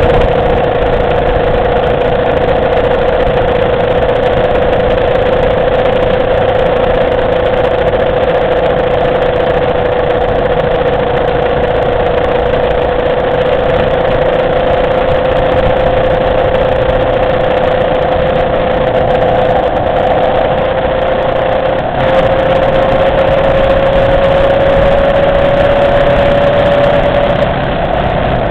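Motorcycle engine running steadily while riding, with road and wind noise; its pitch holds and then slowly climbs over the last several seconds as it speeds up.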